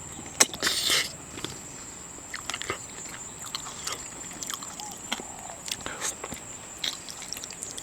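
Eating sounds from a seafood meal: irregular small clicks, crackles and smacks, with a louder crackling burst about half a second to a second in, over a faint steady high-pitched whine.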